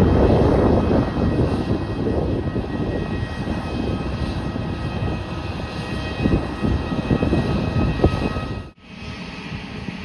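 Jet airliner's engines rumbling loudly, then slowly fading. The sound cuts out abruptly near the end and comes back as a quieter rumble.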